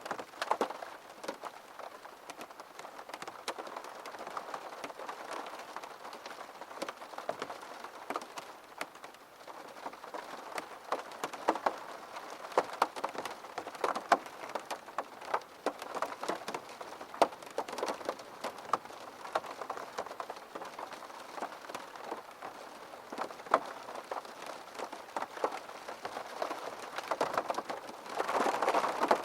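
Steady rain falling on a hard surface, with many individual drops tapping sharply through the constant patter. The rain swells briefly louder near the end.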